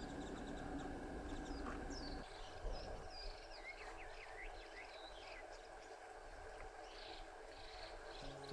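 Background music for the first two seconds, then small wild birds calling with many short, high chirps and quick falling notes.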